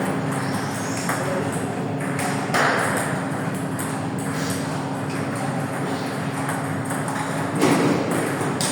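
Table tennis balls clicking sharply off tables and bats in rallies, at an uneven pace, over the murmur of a playing hall and a steady low hum.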